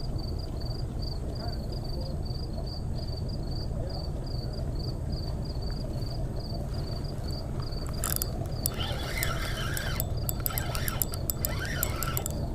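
An insect chirping steadily, about three chirps a second, over a steady low rumble. About two-thirds of the way through, the chirping gives way to a clatter of sharp clicks and short squeaks.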